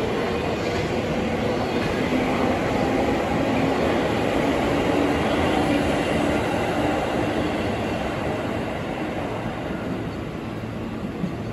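JR 651-series electric limited-express train pulling out of the platform, with steady wheel and running noise that eases off slightly near the end as the last car moves away.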